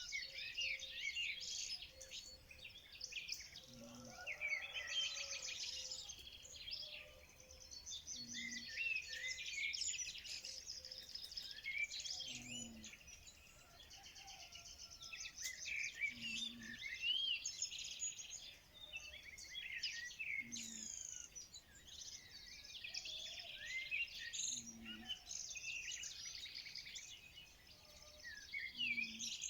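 Dense chorus of many small songbirds chirping and trilling over one another, with a short low note repeating about every four seconds underneath.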